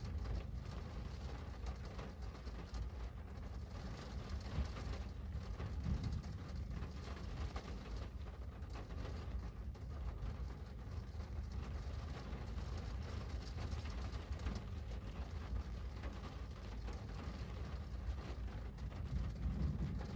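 Steady rain on a window: a constant low rumble with faint scattered ticks of drops on top.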